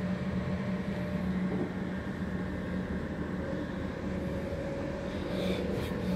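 Steady running noise of a passenger train heard from inside the carriage: a constant low hum over a rumble. A brief light rattle comes near the end.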